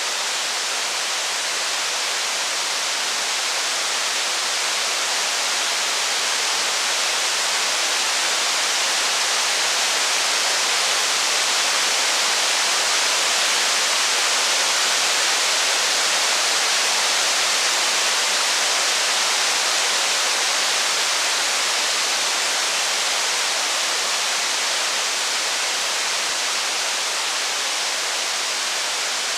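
Steady rain falling as an even hiss, swelling a little about halfway through and easing again.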